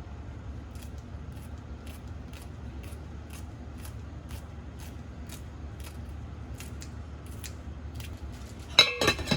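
Kitchen scissors snipping with light regular clicks, about two a second, over a low steady hum. Near the end comes a loud clatter of metal or dishes knocking together, with a brief ring.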